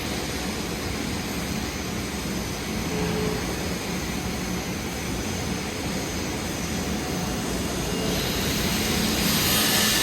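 Electric arc welding on a pipe socket joint during the capping pass: a steady, dense crackle and hiss of the arc over a low hum, growing brighter and hissier near the end.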